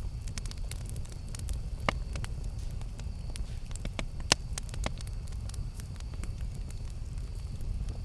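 Campfire crackling, with many small snaps and two louder pops, about two seconds in and just past four seconds, over a steady low rumble.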